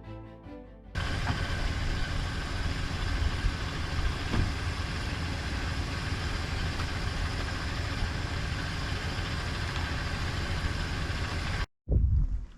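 Truck engine and road noise while driving, a steady rumble, starting after a short stretch of music and cutting off abruptly near the end.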